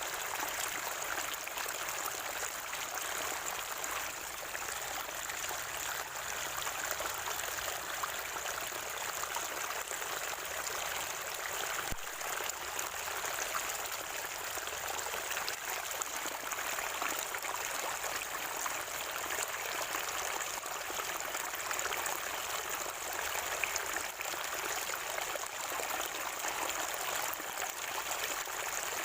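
Spring water gurgling and trickling steadily, a continuous even rush with no breaks.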